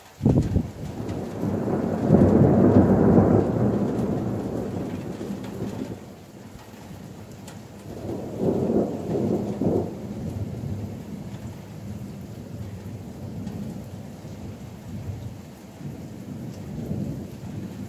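Thunder: a sudden crack and then a long, loud rumble, loudest in the first few seconds, with a second swell of rumbling about eight seconds in before it tails off. Steady rain falls underneath.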